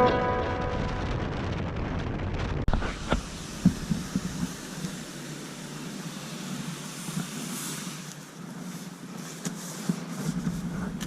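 Plucked-string music fades out, then comes steady vehicle noise with wind on the microphone and a few sharp knocks.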